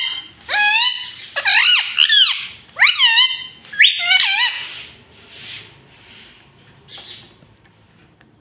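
Pet ring-necked parakeet calling: four loud, shrill squawks with quickly bending pitch in the first half, then only faint rustling.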